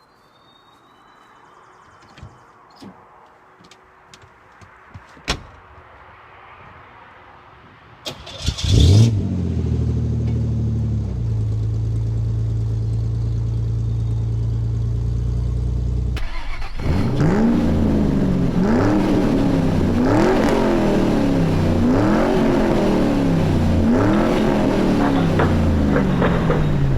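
1985 GMC S15 pickup's engine starting about a third of the way in, briefly revving, then idling steadily. From about two-thirds of the way it is revved up and down over and over, about every second and a half, as the truck pulls forward. A few faint clicks come before the start.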